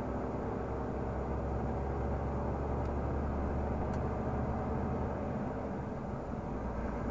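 Renault Magnum 480 truck's diesel engine running steadily on the move, heard from inside the cab as a low, even drone. The lowest part of the drone shifts slightly about five and a half seconds in.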